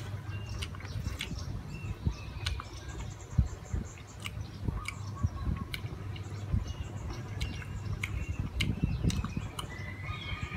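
Close-miked chewing of fried pork, with irregular wet mouth clicks and smacks. Birds chirp faintly in the background.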